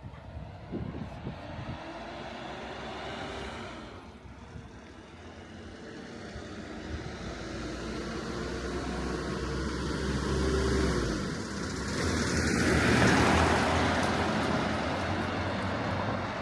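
Road traffic: a motor vehicle's engine hum, then the rushing noise of a vehicle passing close, loudest about two-thirds of the way through and fading afterwards.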